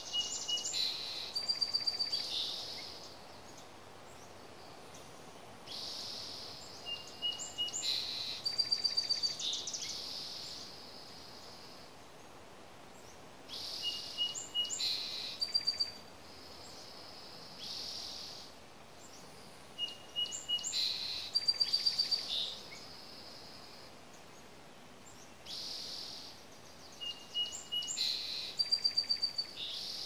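A songbird singing the same phrase again and again, about every six to seven seconds: a hissy high note, a couple of short thin whistles, then a fast rattling trill.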